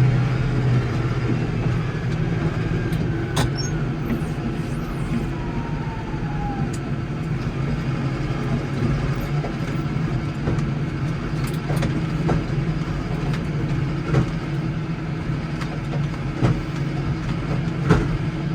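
Case 115U's engine running steadily, with a few sharp knocks along the way.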